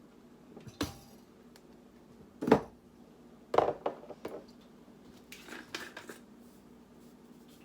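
Kitchen clatter of containers and utensils being handled while seasoning a bowl of chicken: a few separate knocks and clinks, the loudest about two and a half seconds in.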